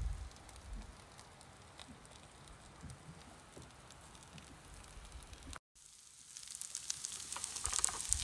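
Floured cod fillets and a pan of diced hash browns sizzling in oil on small portable stoves. The sizzling starts after a short dropout, about six seconds in, and grows louder toward the end, full of fine crackles. Before that it is mostly quiet.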